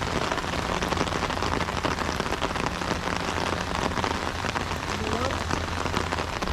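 Steady rain falling, a dense stream of small drop impacts close by.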